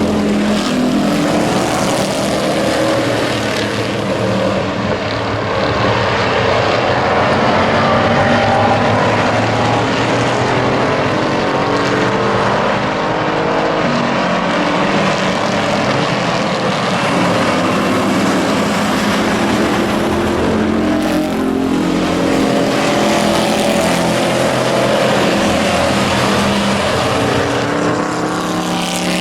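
Hobby-class race trucks running laps in a pack: several engines at once, their pitches rising and falling as they accelerate and pass.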